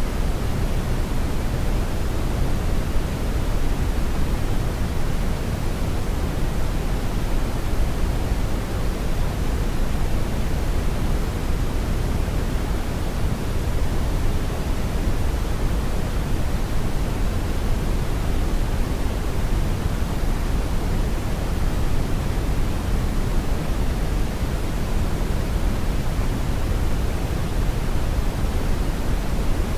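Brown noise: a steady, unchanging rumble of random noise, heaviest in the bass and falling away toward the treble.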